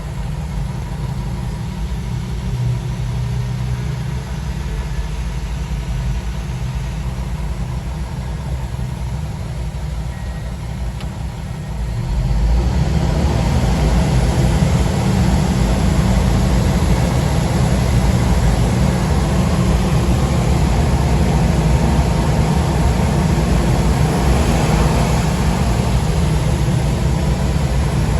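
A 2004 Cummins ISM inline-six diesel engine running steadily. About 12 seconds in it gets louder and brighter, and stays so.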